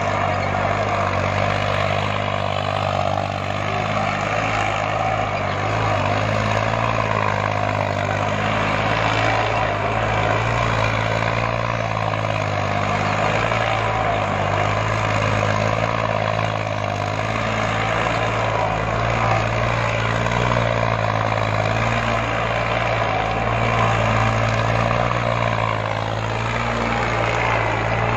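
New Holland tractor's diesel engine running steadily at constant revs, a loud, even drone.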